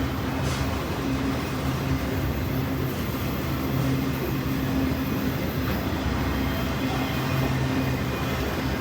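CSX freight train rolling past with a steady rumble and a low, pulsing hum.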